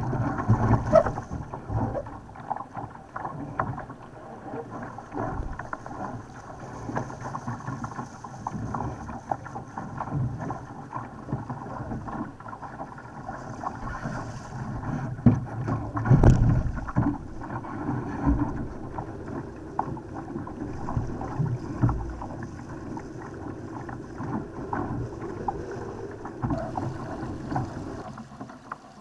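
Laser sailing dinghy moving fast in strong wind: water rushing and slapping against the hull, wind buffeting the microphone, and frequent short knocks, with a loud thump about sixteen seconds in.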